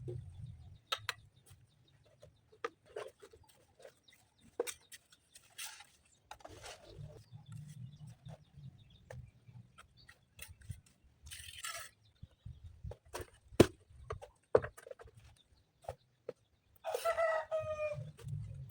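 A chicken calls once near the end, with scattered sharp knocks and clicks through the rest.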